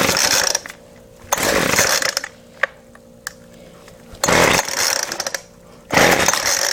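Weed Eater Featherlight FL25 two-stroke string trimmer being pull-started: four hard yanks of the recoil starter, each a rasping whir of about a second, and the engine does not catch. The owner takes the failure to start for fuel not getting through.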